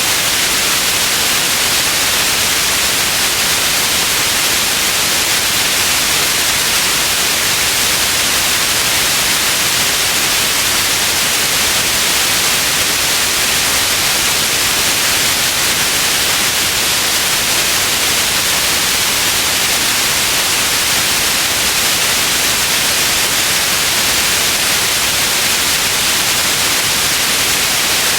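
Steady white noise: an even, unchanging hiss, bright and strongest in the upper range.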